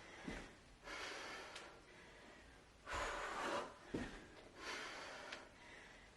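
A woman breathing hard through a set of kettlebell jump lunges: forceful exhales and gasping inhales about every second and a half, with a few dull low thumps among them.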